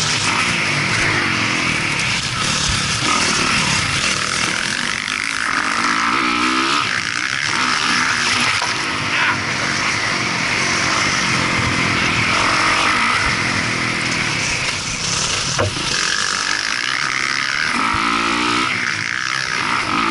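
Motocross dirt bike engine revving, its pitch climbing and dropping over and over as the bike accelerates and backs off around the track.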